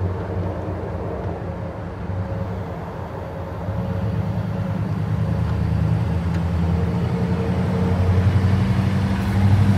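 A car engine idling steadily with a low hum. It gets somewhat louder about a third of the way in, and again near the end.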